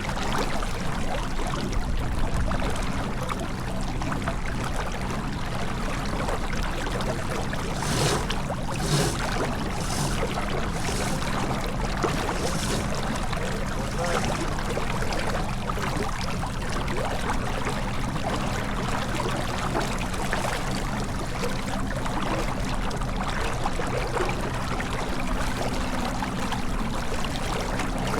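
Steady rush of water along the hull of a J/24 sailboat under way, with a low steady hum underneath and a few short splashes or knocks about eight to eleven seconds in.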